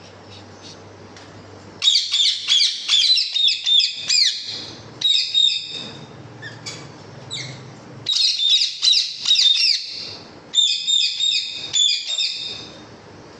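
Small birds chirping in quick runs of high notes, in four bursts of one to two seconds each, the first starting about two seconds in, over a faint steady hum.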